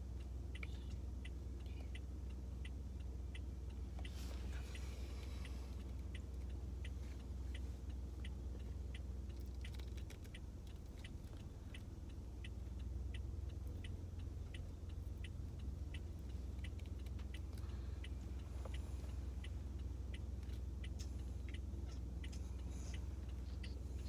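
A car's indicator ticking evenly, about two clicks a second, over the low steady hum of the car inside the cabin.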